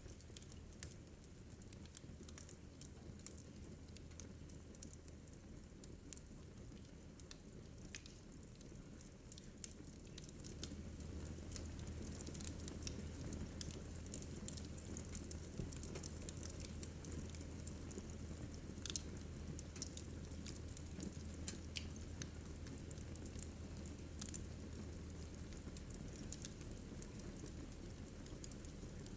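Wood fire crackling in a fireplace: scattered sharp pops and snaps over a low steady rush, growing a little louder about ten seconds in.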